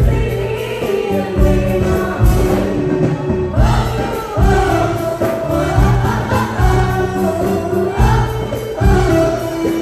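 A choir singing with instrumental backing and a regular low beat.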